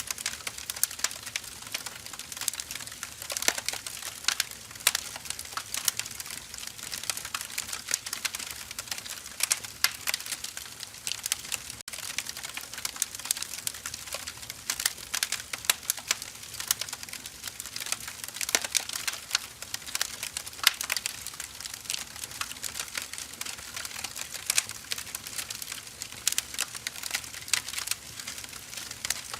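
Wood fire crackling: firewood burning with a dense, irregular stream of small pops and snaps over a soft hiss.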